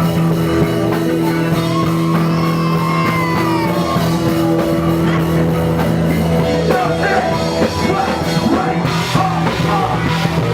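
Loud rock music with drums, guitar and some singing, which stops abruptly right at the end.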